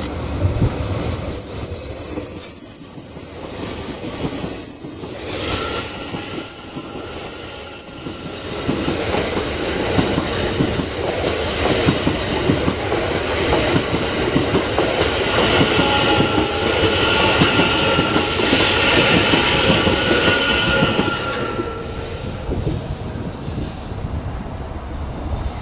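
The Train Suite Shiki-shima (JR East E001 series) passes close by: steel wheels rolling and clattering over the rails as the cars go by, with a high whine through the middle of the pass. The sound eases near the end as the last car draws away.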